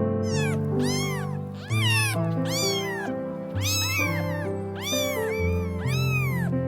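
A run of about nine short animal calls, each rising then falling in pitch, over background music with steady held notes.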